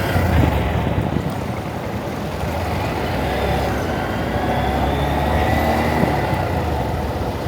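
Honda Monkey's small single-cylinder engine running under way as the motorbike squeezes through slow traffic, mixed with wind noise on the camera's own microphone and the sound of surrounding traffic.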